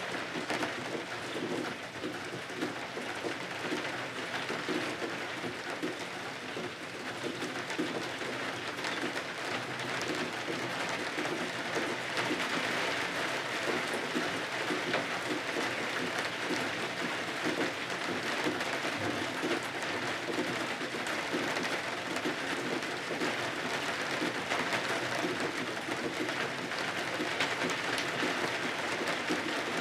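Steady rain falling and pattering, a little heavier in the second half.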